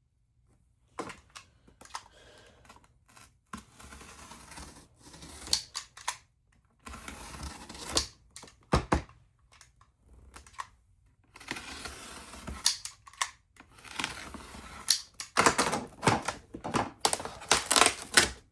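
A craft blade cutting through foam board in a series of strokes: scraping, crunching passes of a second or two each, with sharp clicks and taps between them and short pauses.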